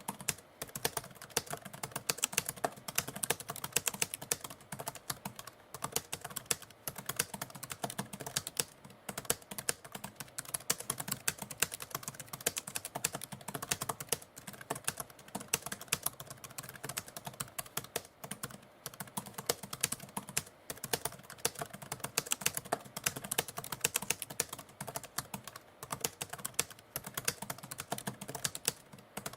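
Manual typewriter typing: rapid, irregular key strikes clacking without a break.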